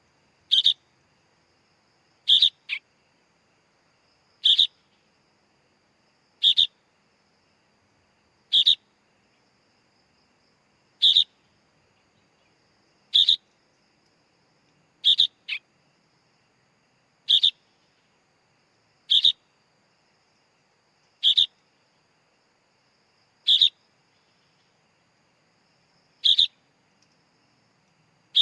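Sooty-headed bulbul (kutilang) chick calling: short, sharp high calls repeated regularly about every two seconds, a few of them followed by a quick second, lower note.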